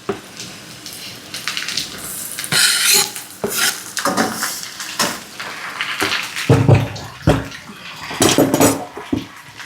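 A metal utensil clatters and scrapes against a frying pan as chopped onion and tomato are added to potatoes frying in olive oil. The knocks come at an irregular pace, with a few heavier thumps about six and a half to seven and a half seconds in.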